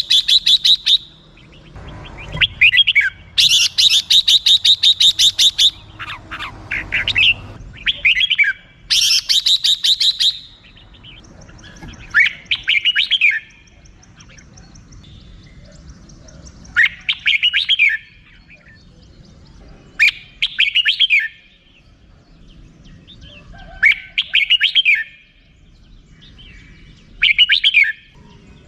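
Red-whiskered bulbul giving its rapid rattling 'rik-rik-rik' call in two fast runs in the first ten seconds, then short whistled phrases repeated every three to four seconds.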